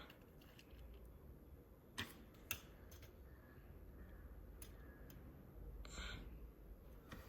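Quiet room tone with two small sharp clicks, about two and two and a half seconds in, and a brief soft rustle near six seconds: a small die-cast model truck and cars being handled.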